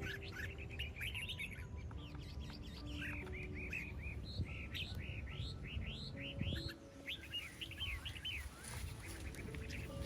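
Many birds chirping in quick, repeated notes, with a soft, slow melody of held notes and a low rumble underneath.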